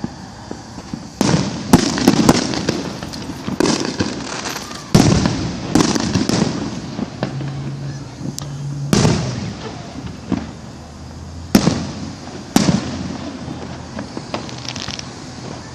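Fireworks going off: about eight sharp bangs at irregular intervals, each trailing off briefly, with a short spell of crackling near the end.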